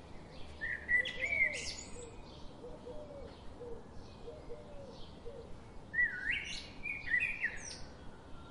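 Birds singing: a quick phrase of high, sweeping notes about a second in and another about six seconds in, with softer, lower chirps repeating between them over a faint background hiss.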